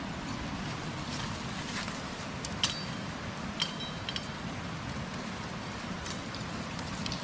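Campfire of wet firewood burning with a steady hiss, broken by a few sharp clicks or clinks in the middle, two of them ringing briefly.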